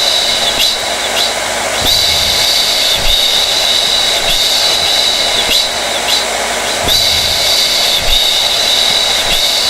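Hair dryer running steadily: an even rush of air with a high whine, which briefly wavers about two seconds in and again about seven seconds in.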